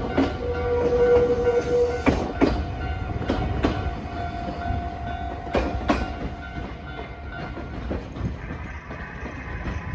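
Nankai electric train passing over a level crossing, its wheels clacking sharply over rail joints a handful of times between about two and six seconds in, the running noise fading as it moves off. A held tone sounds for the first two seconds.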